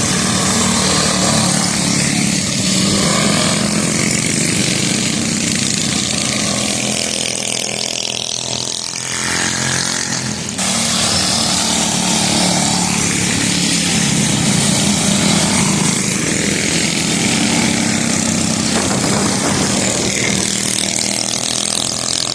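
Several small mini bike engines running as they race around a track.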